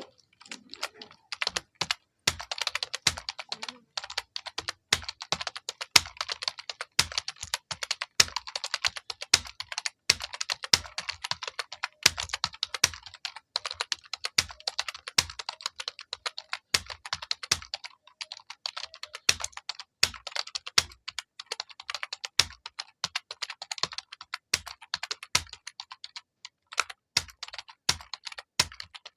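Fast, continuous typing on a computer keyboard: a steady stream of key clicks with the odd short pause.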